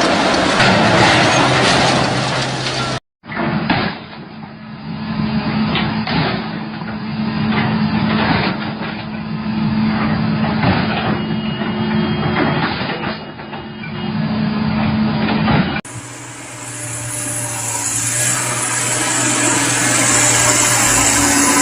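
Heavy machinery running, with a steady engine hum and repeated knocks and clanks. The sound breaks off about 3 s in and changes abruptly again near 16 s.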